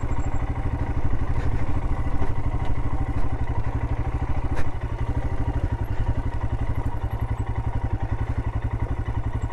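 Royal Enfield Himalayan's single-cylinder engine running at low, steady revs, its firing pulses coming evenly, as the bike creeps down a steep rocky slope. One sharp knock sounds about four and a half seconds in.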